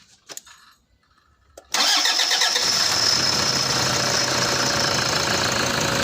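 Toyota 1KD diesel engine starting about two seconds in: it catches almost at once and then runs steadily. This is the start after the fuel system was primed through the primer pump and a new battery fitted, curing the crank-no-start.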